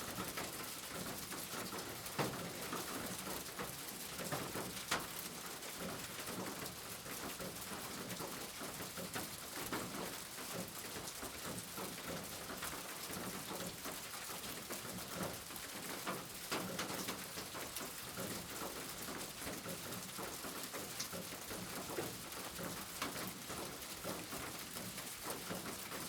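Steady rain falling, an even hiss with scattered sharper drop hits, a couple of them louder.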